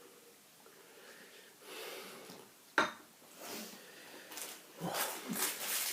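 Small handling noises: a soft rustle, one sharp click a little under three seconds in, then a spell of crackly rustling near the end.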